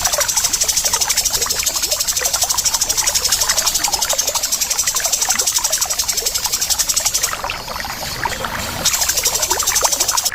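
Bird-training recording of harsh, rapid bird calls, billed as tengkek udang (kingfisher) mixed with cucak jenggot (grey-cheeked bulbul): a fast, even, high rattling trill over a busy scatter of short chirps. The high rattle breaks off for about a second and a half near the end, then starts again.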